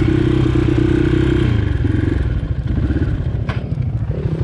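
Dirt bike engine held at a steady high rev, then falling off about a second and a half in to an uneven, lower pulsing run, with a sharp click about three and a half seconds in.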